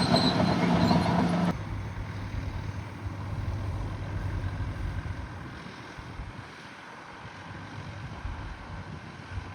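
Heavy earthmoving machine's engine running. For the first second and a half it is louder, with a steady hum and clatter, then it switches abruptly to a quieter, steady low hum that lasts to the end.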